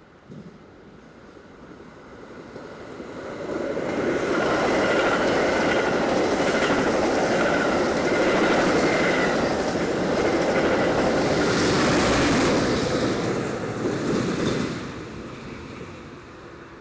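A long Metra commuter train passing at speed. The rumble and wheel clatter on the rails build up over the first few seconds, stay loud for about ten seconds with a faint high ringing over them, and fall away near the end.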